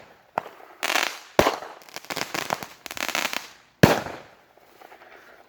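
A 16-shot consumer fireworks cake firing: sharp bangs, three of them loudest, with crackling bursts in between, dying away about four and a half seconds in.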